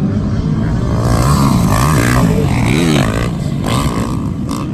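Motocross dirt bike engines revving up and down through the gears, more than one at a time, with pitch repeatedly rising and falling.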